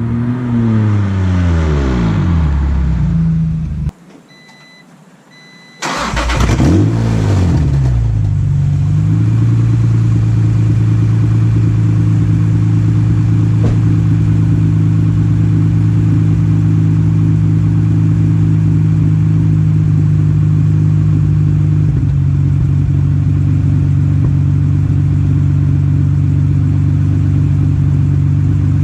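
Acura NSX V6 revved and let fall back twice, with a two-second break between, then settling into a steady idle. It runs through the old exhaust, which is broken and holed and leaves the car basically straight-piped.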